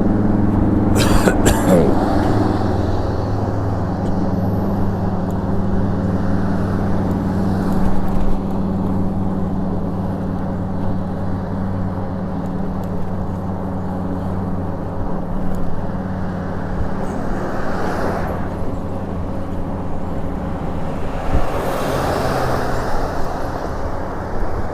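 Street traffic heard from a moving e-bike. A vehicle engine hums steadily and fades out about two-thirds of the way through, there are two sharp clicks about a second in, and cars pass near the end.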